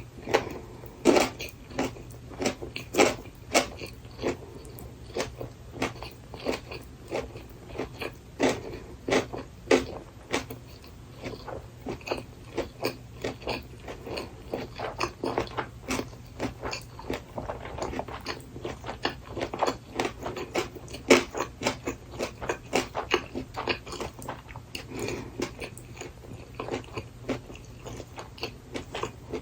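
Close-miked chewing of gimbap rolled with braised burdock root: a continuous run of sharp little mouth clicks and bites, several a second, over a steady low hum.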